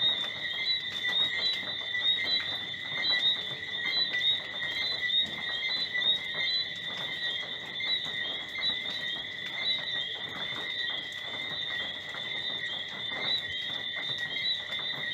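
Tropical night chorus of crickets and frogs: a steady high mass of many overlapping short chirps and whistles.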